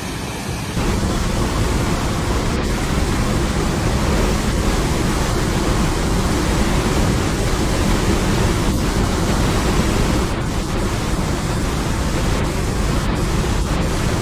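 Rushing water: a loud, steady rush that cuts in sharply just under a second in.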